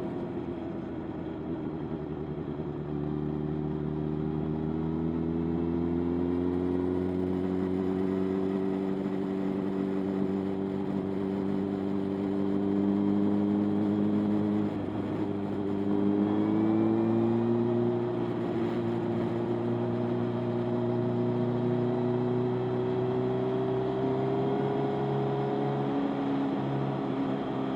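Motorcycle engine running under way, its pitch climbing slowly, with a brief dip about halfway through before climbing again.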